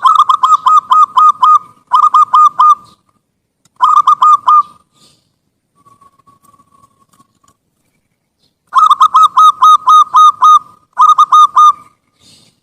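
Zebra dove (perkutut) cooing loudly in rapid runs of short, hooked notes, about six a second. The runs come in bursts with pauses between them, and a faint drawn-out coo sits in the middle.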